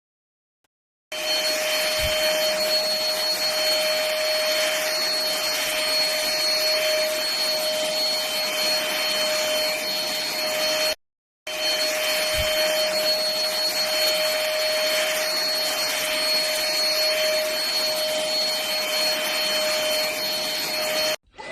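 Home_eStore V10 cordless vacuum cleaner running: a steady whine over an airy rush. It is heard in two stretches of about ten seconds each, with a brief gap near the middle.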